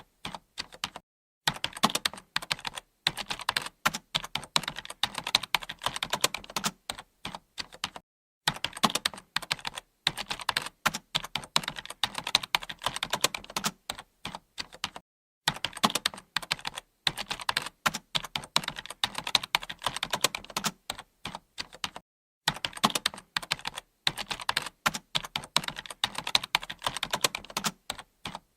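Typing on a computer keyboard: rapid runs of key clicks, with a brief pause about every seven seconds.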